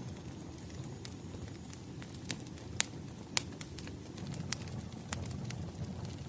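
Burning firewood crackling: irregular sharp pops over a low, steady rumble of flames.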